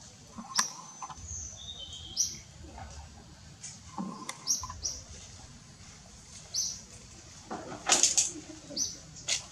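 Small birds chirping: short high chirps repeated every second or so, with a couple of short gliding whistles in the first few seconds. A louder noisy burst comes about eight seconds in.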